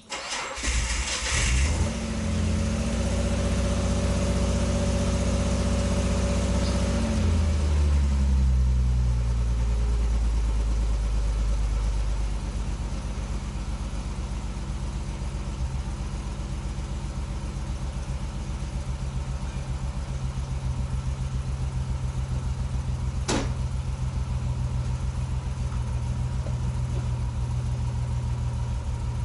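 Datsun 240Z's L-series straight-six cranked on the starter, catching within about a second. It runs at a steady fast idle for several seconds, then drops and settles into a steady, pulsing idle. A single sharp click comes later on.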